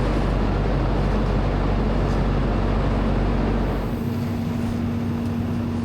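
A heavy engine running steadily; about four seconds in, its deepest rumble falls away and a steady hum comes in.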